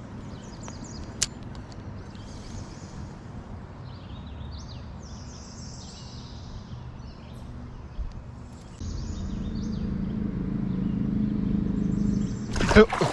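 Birds chirping faintly over steady outdoor background noise, with a louder low rushing noise setting in about nine seconds in. Near the end comes a sudden loud brushing crackle as a branch rubs against the angler and his camera.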